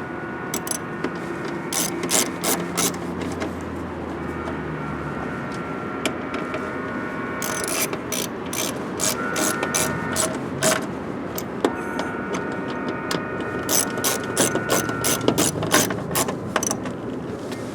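Hand ratchet wrench clicking in runs of quick strokes as a bolt on the door's window track is snugged up.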